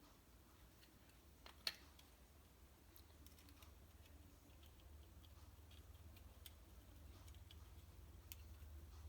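Near silence with a few faint, scattered clicks of small parts and tools being handled while reed valve blocks are assembled, one sharper click a little under two seconds in, over a faint low hum.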